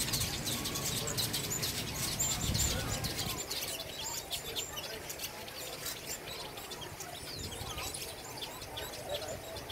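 Many small birds chirping together, short high calls overlapping without a break.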